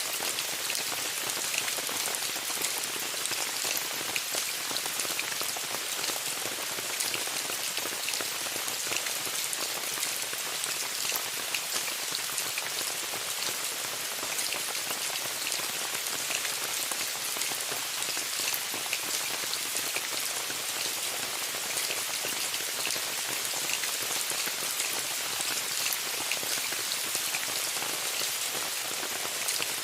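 Steady rain pattering on a tent's fabric, a dense even hiss with many small sharp drop hits.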